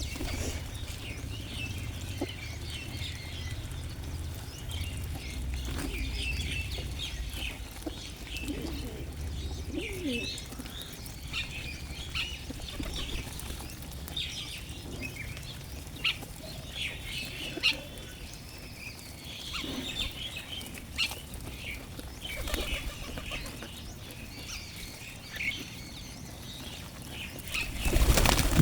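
A flock of small birds chirping busily as they feed, with scattered short clicks and wing flaps. A low rumble runs under the first half, and a loud burst of noise comes near the end.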